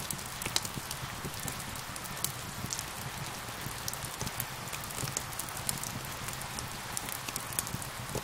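Steady rain hissing, with a wood fire crackling in frequent sharp, irregular pops over it.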